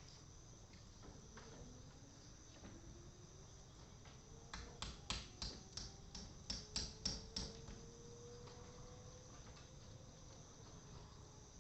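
Insects chirping steadily and high-pitched. About four seconds in comes a run of about ten sharp, evenly spaced clicks, roughly three a second, that swell and then fade.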